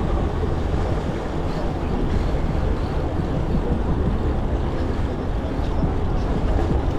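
Steady wind rumble on the microphone while riding a bicycle, with road and tyre noise underneath.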